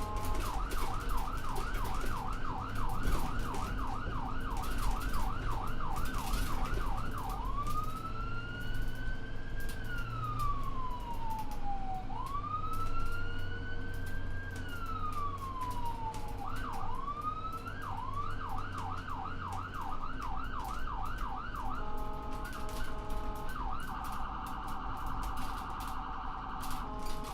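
Electronic emergency-vehicle siren cycling through its modes: a fast yelp of about three to four sweeps a second, then a slow wail that rises and falls twice, then the yelp again. Near the end come brief steady tones and a rapid warble. A low steady hum runs underneath.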